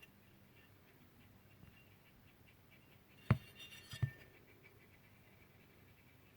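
Two sharp knocks about three quarters of a second apart, past the middle, the first louder and ringing briefly, over faint low background.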